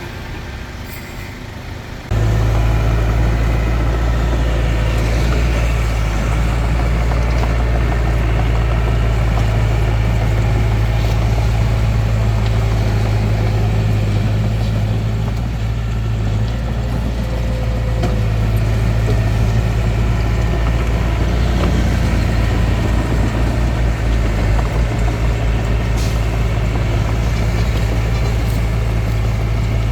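Hitachi DX45M bulldozer's diesel engine running steadily with a deep, even hum. It cuts in suddenly and loud about two seconds in, after a quieter stretch.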